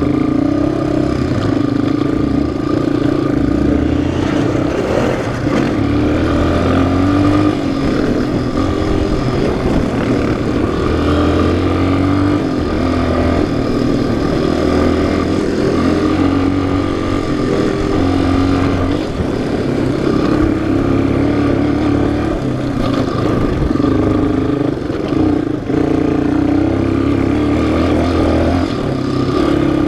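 Single-cylinder four-stroke off-road engine running under changing throttle while riding a trail, its pitch rising and falling every few seconds as the rider opens and closes the throttle.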